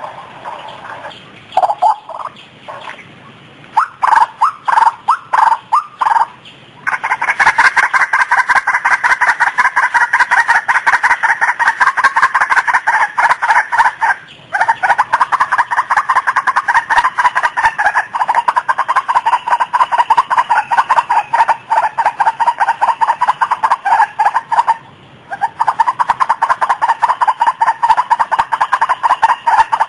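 White-breasted waterhen (ruak-ruak) lure call: a few separate call notes, then from about seven seconds in a fast, unbroken run of rapidly repeated notes that breaks off briefly twice.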